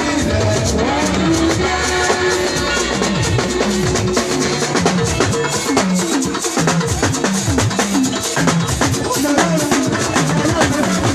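Instrumental gospel band music: a drum kit playing a fast, steady groove over a low, moving bass line, with no singing.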